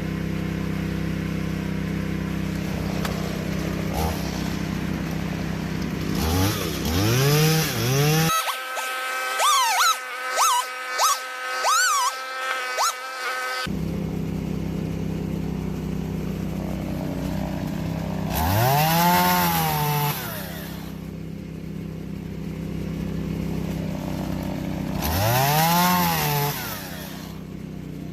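Stihl MS 170 small two-stroke chainsaw idling, revved up and back down again and again: a run of quick short blips near the middle, then two longer revs later on. These are short nicks cut into the log to mark 16-inch lengths.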